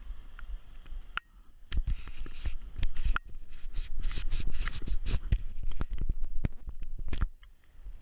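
Close, irregular scraping and rubbing with sharp clicks and knocks, starting about a second in and stopping shortly before the end.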